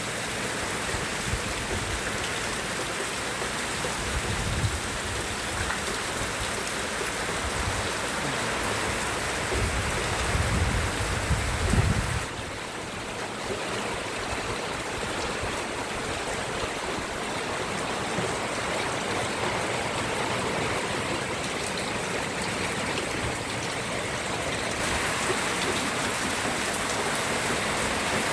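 Steady rain falling, a dense even hiss. Low rumbles swell about four seconds in and again from about ten to twelve seconds, then stop abruptly.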